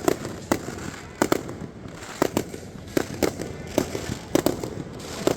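Fireworks display: aerial shells bursting, about a dozen sharp bangs at irregular intervals, some in quick pairs, each with a short echoing tail.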